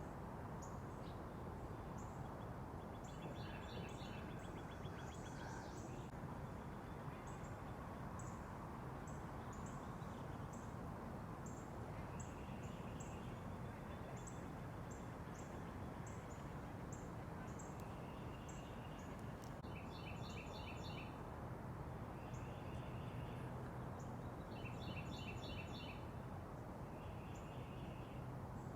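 Small backyard songbirds calling: thin high notes repeating all through, and short rapid trills that come in bursts several times, over a steady low background rumble.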